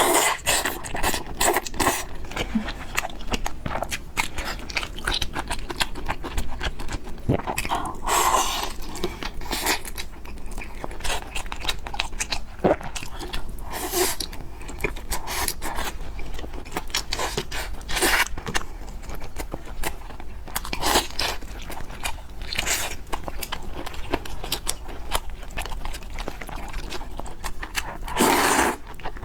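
Close-miked eating of spicy fried noodles and pork: steady chewing with many small wet clicks and smacks, and several longer noisy stretches where the noodles are slurped in.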